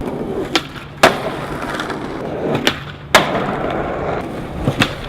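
Skateboard wheels rolling on wet paving, with sharp clacks of the board hitting the ground, two loud ones about a second and three seconds in: the pop and landing of tricks down a set of stairs.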